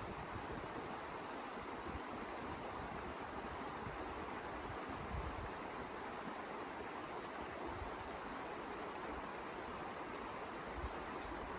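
Wind blowing steadily, with irregular low rumbles of gusts.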